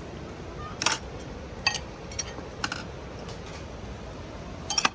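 A handful of short sharp clicks or knocks, about five, scattered over a steady background hiss.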